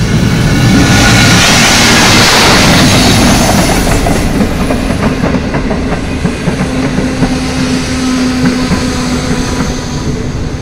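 Derailed diesel locomotive passing close at speed, with a loud rush of noise about one to three seconds in, then clattering and rattling of the train over the track and a steady hum later on. The engine has come off the rails and is running through the track bed.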